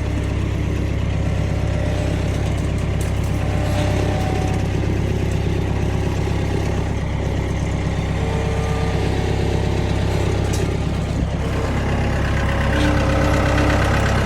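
Engine of the vehicle towing a trailer-mounted sawmill, running steadily as it creeps along a tight wooded path.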